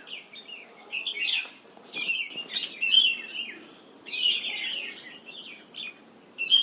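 Small birds chirping and chattering in irregular bursts of short, high notes.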